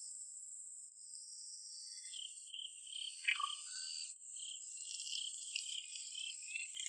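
Insects trilling steadily at a high pitch, with a few faint brief sounds, one of them about three seconds in.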